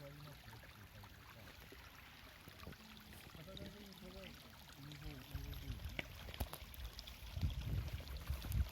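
Wood bonfire crackling with scattered sharp pops, joined about five seconds in by a low rumbling that grows louder toward the end.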